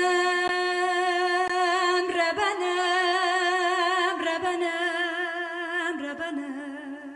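A woman singing a long, drawn-out Kurdish phrase with a wide vibrato. The note steps down in pitch twice, and the voice fades near the end.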